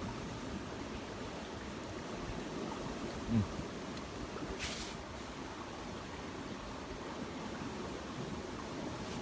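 Steady rushing of a river in flood, an even wash of water noise. A brief low thump comes a little over three seconds in, and a short hiss comes just under five seconds in.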